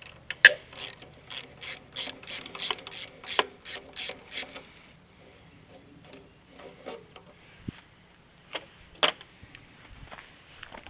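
Socket ratchet clicking in quick back-and-forth strokes while backing out the fuel tank mounting bolts on a motorcycle, about three to four clicks a second for some four seconds. After that come a few scattered light clicks and one sharper metallic clank near the end.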